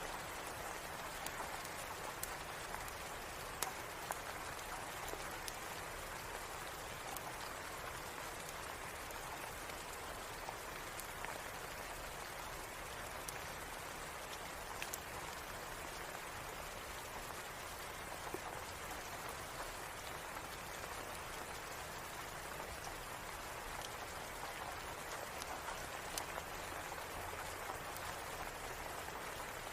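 Steady rain falling, an even hiss with scattered sharp clicks of drops throughout.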